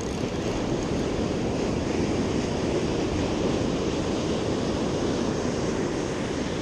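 Steady rush of ocean surf on the beach, with wind on the microphone.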